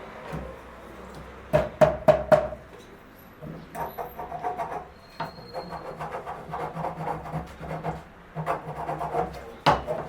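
Hand work on wood: a quick run of sharp knocks on wood, then rapid back-and-forth rubbing or rasping strokes, and a second run of knocks near the end, over a low steady hum.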